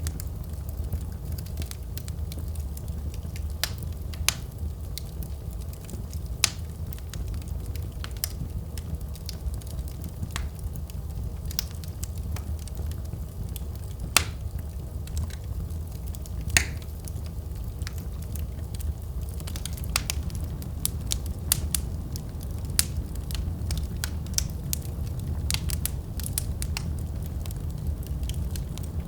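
Wood fire burning in a fireplace: a steady low rumble with irregular sharp crackles and pops, the loudest about halfway through.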